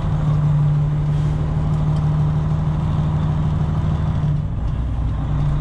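Straight-piped 12.7-litre Detroit Diesel in a Freightliner Classic XL semi running at low speed while the truck is manoeuvring, a steady deep drone whose note drops lower about four and a half seconds in.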